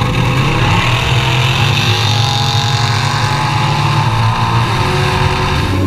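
Twin-turbo Ford Coyote V8 in a Mustang running steadily at low speed, a loud even engine note that holds nearly the same pitch throughout.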